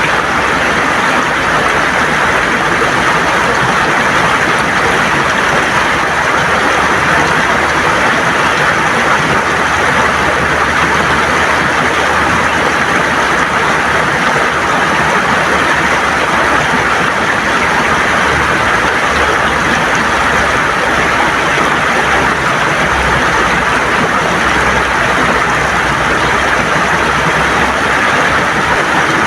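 A river's water running and gurgling over stones, a loud, steady rush with no letup.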